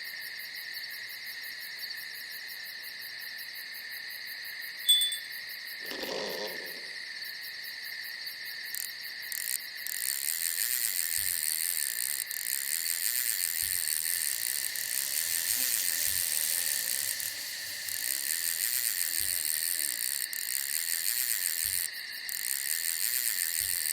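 Night insects chirring steadily in several high-pitched bands, growing louder about ten seconds in. A single short lower call comes about six seconds in.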